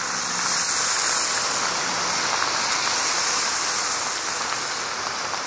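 Steady rushing hiss, like falling water or rain, unbroken and strongest in the high treble.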